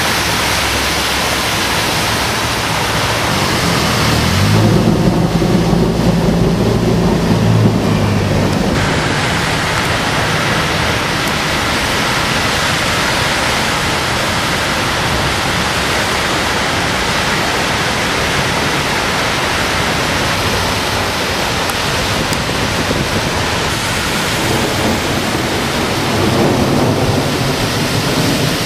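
Heavy rain pouring onto a flooded street while vehicles drive through the deep water, making a steady hiss throughout. A low engine hum passes about five to nine seconds in and again near the end.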